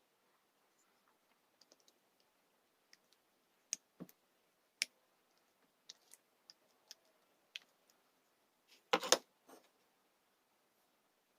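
Scattered small clicks and taps from something being handled, with a louder, tight run of clicks about nine seconds in.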